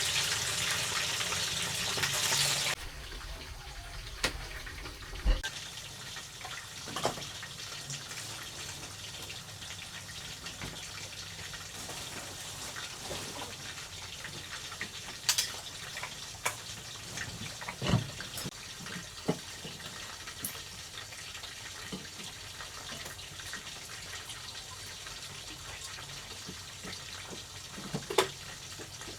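Water running and splashing, cutting off abruptly about three seconds in. After that comes a quieter steady background with scattered knocks and clicks.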